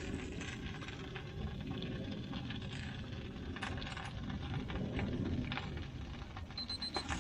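Digital meat-thermometer alarm beeping: a quick run of about four short, high beeps near the end, signalling that the probe has reached its set temperature. Under it is a steady low background noise with scattered small clicks.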